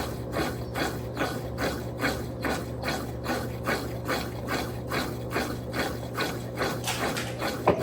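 Electrolux Turbo Capacidade Premium 15 kg (LTP15) top-loading washing machine agitating its load with an LPR16-type agitator. Water and clothes churn in an even rhythm of about three strokes a second over a steady motor hum. Near the end comes a sharp click, then a steady tone.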